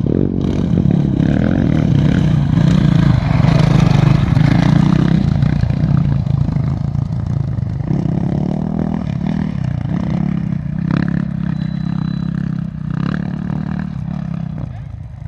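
An engine running, with a few short knocks near the end.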